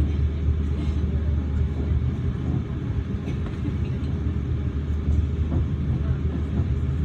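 Steady low rumble of a Class 444 Desiro electric multiple unit running at speed, heard from inside the carriage, with a few faint clicks.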